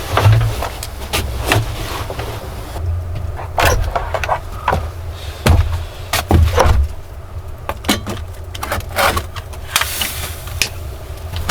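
Irregular knocks and clicks, some in quick clusters, over a steady low rumble.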